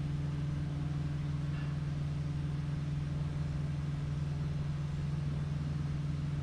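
Mercury Optimax 150 two-stroke direct-injection outboard idling steadily with an even, low hum.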